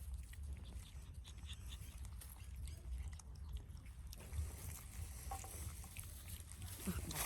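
A dog chewing and eating, with scattered small crunching clicks over a low steady rumble.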